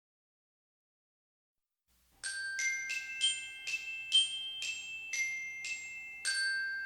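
Silence, then about two seconds in, a short glockenspiel-like jingle of about ten struck bell tones, roughly two a second, the last one ringing on and fading.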